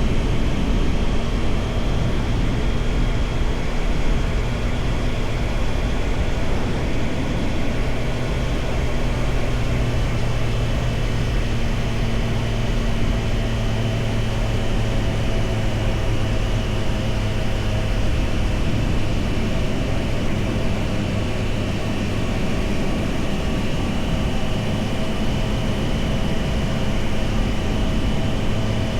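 Triumph Tiger Sport 660's three-cylinder engine running at a steady pitch under a continuous hiss of wind noise.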